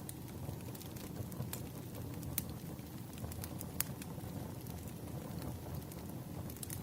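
Wood fire in a fireplace crackling: a steady low rumble of burning with scattered sharp pops, a few of them louder than the rest.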